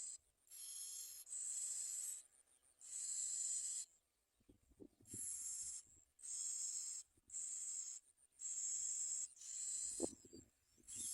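Bar-winged prinia nestlings giving begging calls: a regular series of high, hissing, wheezy bursts, each under a second long, repeating about every second and a half. Faint rustles come in partway through and near the end.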